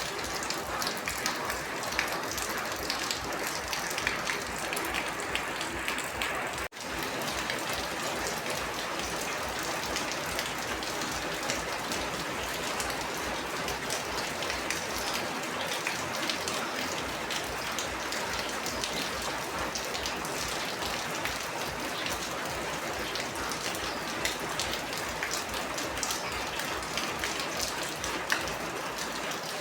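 Steady rain falling, with many separate drops striking a surface. It cuts out for an instant about seven seconds in, a splice in the recording.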